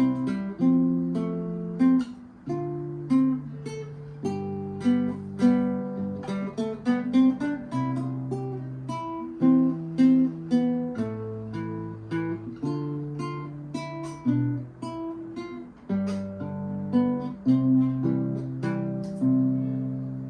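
Classical guitar played solo: a simple melody of plucked notes over sustained bass notes, at a steady, unhurried pace.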